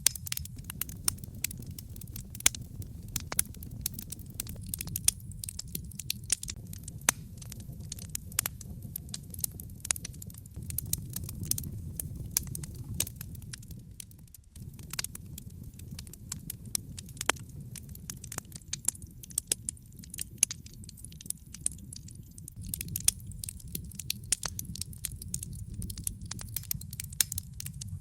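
Wood fire in a fireplace, logs burning with frequent irregular crackles and pops over a steady low rumble, dipping briefly about halfway through.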